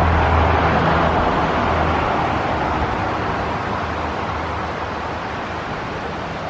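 Road traffic noise: a passing vehicle's engine hum and tyre rush, slowly fading away.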